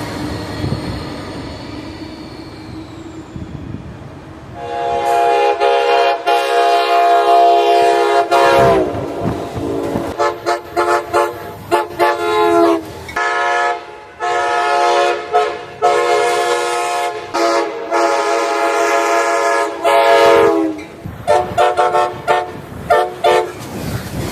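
Passing train's chime horn sounding several tones at once as a chord: after a few seconds of the train running, a long blast about four seconds in, then more long blasts broken by short toots, and a few short toots near the end. Each blast's pitch sags as it is released.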